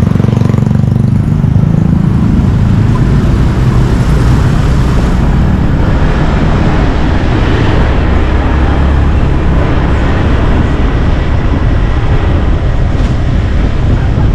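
Motorbike engine running steadily with road and traffic noise, heard from the rider's seat on the move, under a constant heavy low rumble.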